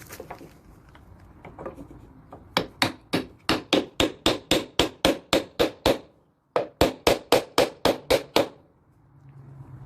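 Rapid hammer blows on wood, about four a second, knocking apart a nail-free joint in a slab-wood stand. There are two runs of strikes with a short break between them about six seconds in.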